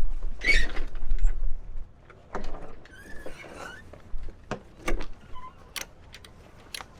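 Sailboat deck gear being worked by hand: a short squeal about half a second in and another rasping squeak around three seconds, then scattered sharp clicks and knocks.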